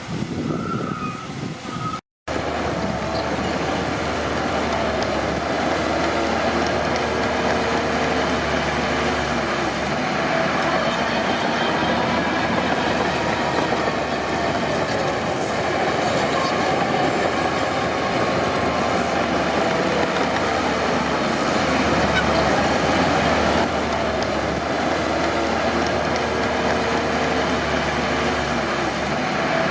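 Crawler bulldozer at work: diesel engine running steadily under load, with the metallic clatter and squeal of its steel tracks. The sound cuts out for a moment about two seconds in, then resumes.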